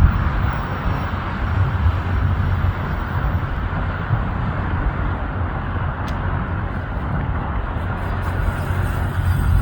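Jet aircraft taking off: a steady rumbling jet engine noise with no clear pitch, swelling again near the end.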